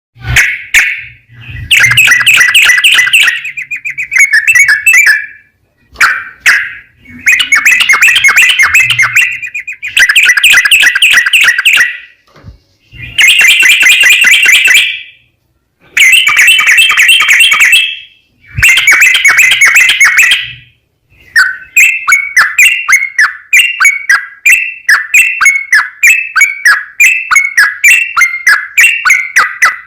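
Yellow-vented bulbul singing loudly in rapid, chattering phrases of about two seconds with short pauses between them. About two-thirds of the way in it changes to an unbroken run of short falling notes, several a second: the long, rapid 'ropel' song.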